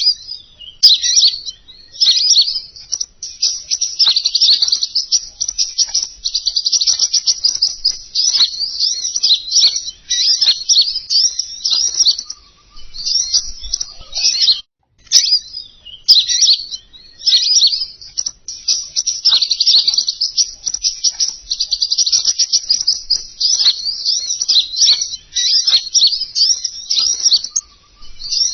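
Lure recording of king konin birdsong: a fast, busy stream of high chirps and trills in long runs broken by brief pauses.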